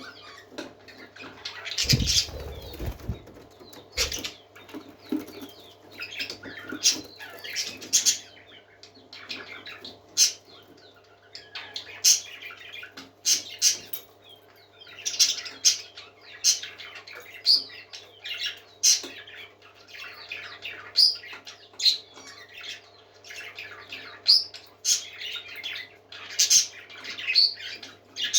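Pet parakeets chirping and calling, short sharp calls coming every second or so, with a flutter of wings about two seconds in. A faint steady low hum lies underneath.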